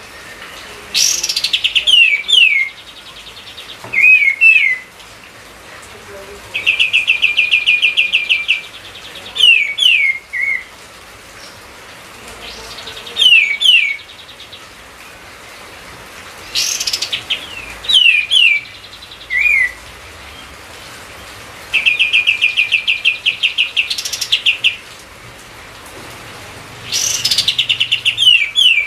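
A kapas tembak songbird singing loudly in repeated phrases every few seconds: quick downslurred whistled notes, and twice a rapid trill lasting about two seconds.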